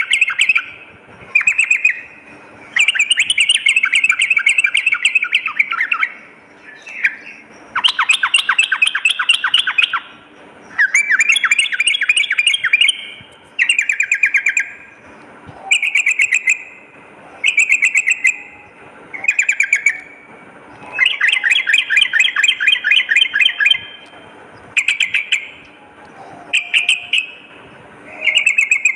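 Yellow-vented bulbul (trucukan) singing: a run of rapid, bubbly chattering phrases, each one to three seconds long, repeated with short pauses between them.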